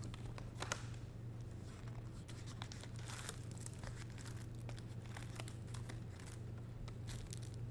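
Foil trading-card pack wrappers crinkling and tearing and cards being handled: a scatter of light rustles and clicks over a steady low hum.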